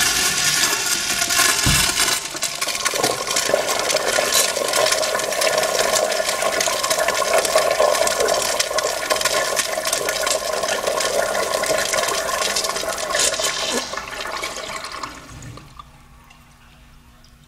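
Sloan Royal flushometer valve flushing a Kohler fixture: a loud rush of water that runs for about fifteen seconds, then tails off and stops near the end.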